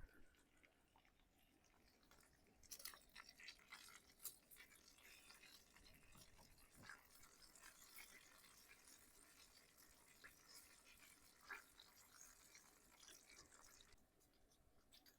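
Near silence, with faint scattered ticks and a light high hiss.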